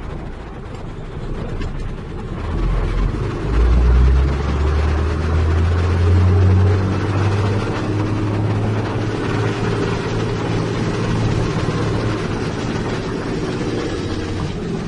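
Heavy diesel engine revving up about two seconds in, its pitch climbing for a few seconds, then running steadily under load.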